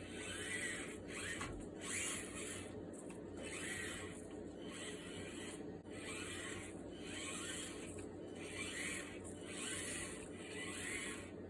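Small electric motor and gears of a 1:24-scale SCX24 RC crawler running in short throttle bursts about once a second, each with a rising whine.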